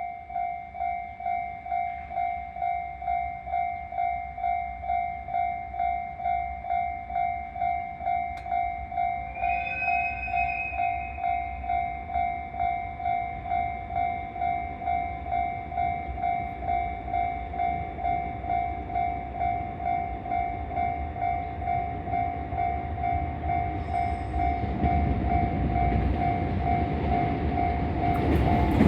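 Railway level-crossing alarm ringing in steady pulses about twice a second. About ten seconds in, the approaching EH500 electric locomotive sounds its whistle for a second or so. A rumble from the oncoming freight train builds over the last few seconds.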